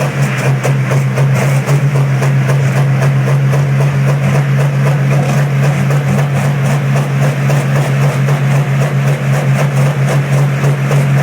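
Diesel engine running steadily after a cold start, with a loud, even, rapid clatter over a deep steady hum.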